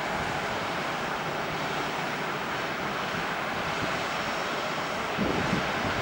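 Steady rushing noise of a jet airliner's engines, rising slightly near the end.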